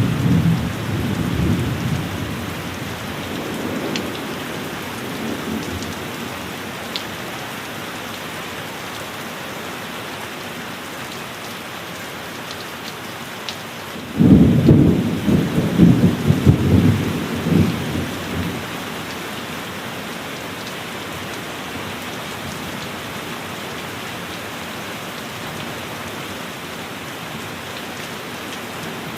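Steady heavy rain throughout. The tail of a thunder rumble dies away over the first few seconds, then a second thunderclap breaks suddenly about halfway through and rolls for several seconds before fading back under the rain.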